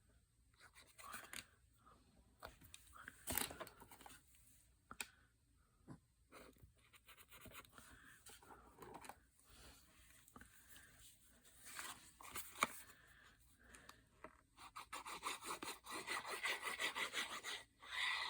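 Paper being handled and rubbed as glued pieces are pressed in place: soft scattered rubs and small clicks, then a quicker run of rubbing strokes near the end.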